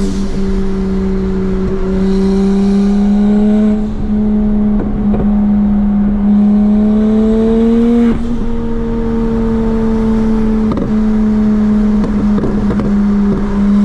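Single-turbo BMW 335i's N54 inline-six running at a steady drone under light load, its pitch creeping slowly upward, with brief dips about four and eight seconds in.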